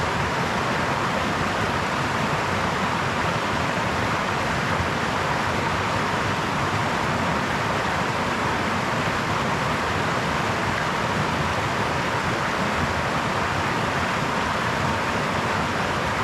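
Brook water flowing over stones, a steady, even rushing.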